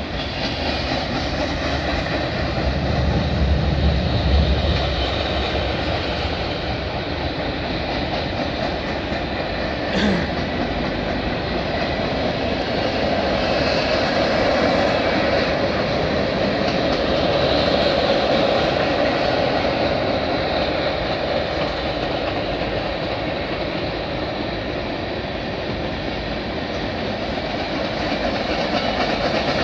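Freight train cars rolling across a steel girder bridge: a steady rolling rumble of wheels on rail, heavier in the low end for the first few seconds, with a single sharp knock about ten seconds in.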